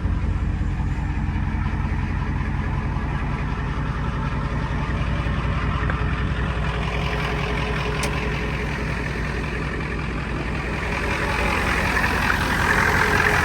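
Ford F350's 7.3-litre IDI V8 diesel idling steadily, getting louder about eleven seconds in.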